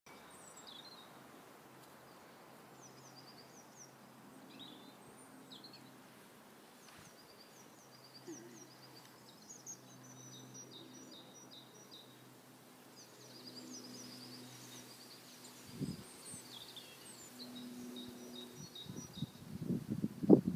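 Small birds chirping and twittering in short high calls throughout, over a faint steady low hum. Near the end come a few dull thumps, the loudest just before it ends.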